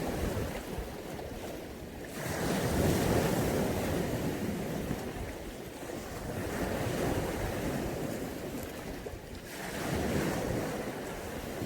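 Mediterranean sea waves breaking and washing onto the beach. The surf swells up about two seconds in and again near the end, roughly seven seconds apart, each surge fading back into a steady hiss of water.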